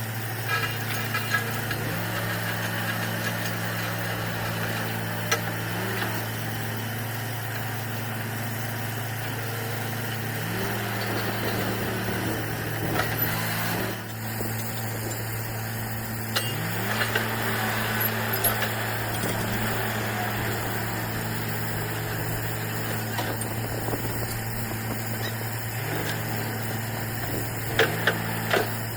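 Borewell drilling rig running steadily at work: a constant low engine drone with a higher tone that shifts up and down every few seconds, and a few sharp metallic knocks near the end.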